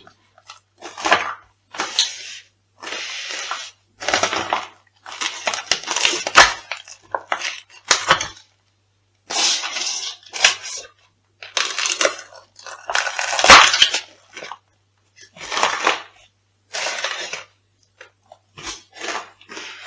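Crunchy food being crushed underfoot: a series of about a dozen crackling, crunching bursts separated by short pauses, the loudest a little past the middle.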